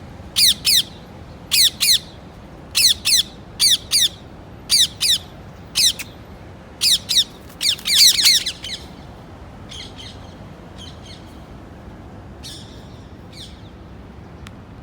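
Parrot squawking in short, harsh calls, many in quick pairs, about one a second. After about nine seconds the calls become fainter and more spread out.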